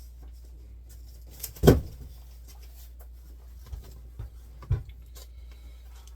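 Handling knocks as 3D printer parts and packaging are moved and set down on a table: one sharp knock about a second and a half in, then three softer knocks a little past halfway, over a steady low hum.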